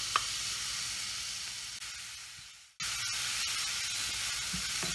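Minced shallots and onion sizzling in hot annatto oil in a pan, with a few clicks from a wooden spoon stirring. The sizzle fades away a little past halfway and then cuts back in suddenly.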